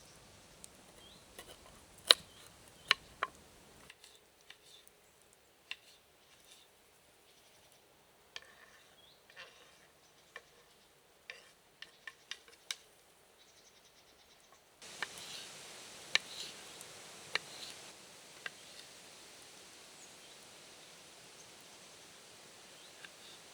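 Scattered sharp clicks and snaps over a quiet hiss, the loudest few about two to three seconds in and again around sixteen to seventeen seconds; the background hiss drops suddenly about four seconds in and comes back about fifteen seconds in.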